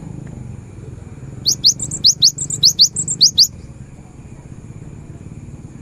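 Cinereous tit (gelatik batu) singing a quick run of about eight sharp, rising whistled notes over roughly two seconds, starting about a second and a half in, over a steady low hum.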